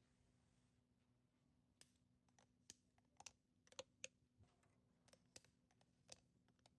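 Faint, irregular clicks and taps of small plastic toy pieces being handled, about a dozen of them starting about two seconds in.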